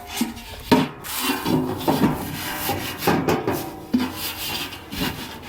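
Split firewood pieces knocking and rubbing against each other as they are handled and packed into a bundle: a string of irregular wooden clunks.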